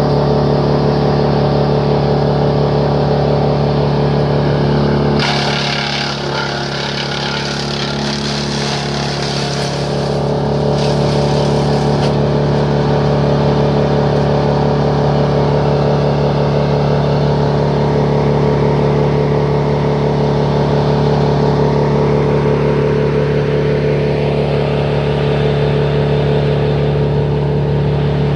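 A heavy machine's engine running steadily at a constant speed, with a noisier, rougher stretch between about five and twelve seconds in.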